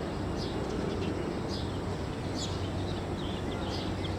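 Small birds chirping in short, high, repeated calls, one or two a second, over a steady low hum and rumble.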